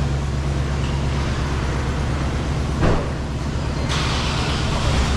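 Heavy vehicle engine running steadily with a low drone, a single knock about three seconds in, and a hiss joining for the last second or so.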